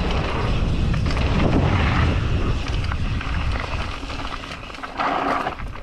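Wind buffeting the microphone over the rumble and rattle of a mountain bike rolling along a dirt trail, easing off in the second half.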